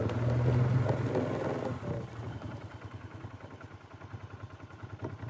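2015 Polaris 570 ATV's single-cylinder engine running at low speed, dropping off after about two seconds and picking up again near the end.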